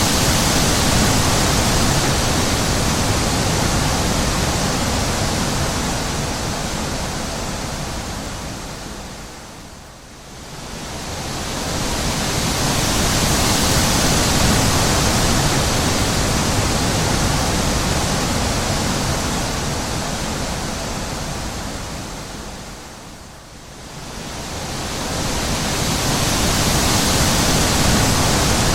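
Wind blowing in a steady rush that dies down and swells back up twice.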